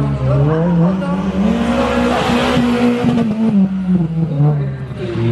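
Peugeot 206 rally car's engine under hard driving: the revs climb in the first second, hold high through a harsher, noisier stretch about two to three seconds in, then drop about three and a half seconds in and pick up again.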